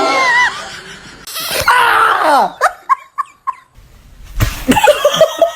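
People laughing and shrieking: long high cries, a few short yelps, then a run of quick, choppy laughter.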